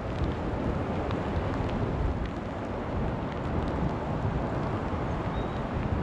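Wind in a snowstorm buffeting the microphone: a steady low rumble with a few faint ticks above it.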